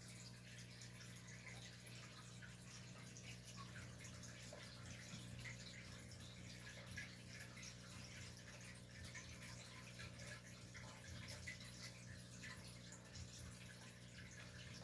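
Faint trickling and dripping of aquarium water over a steady low hum.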